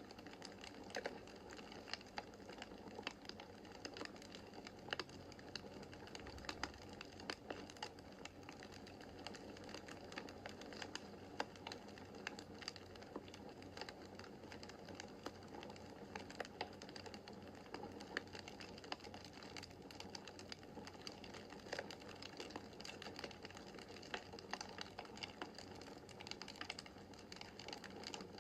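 Wood fire burning in a fireplace: a steady soft rush of flames with frequent irregular sharp crackles and pops from the burning logs.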